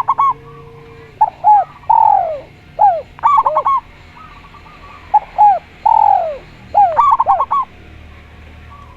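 Doves cooing in three phrases of short arched notes. Each phrase mixes quick stuttering notes with one longer, drawn-out coo.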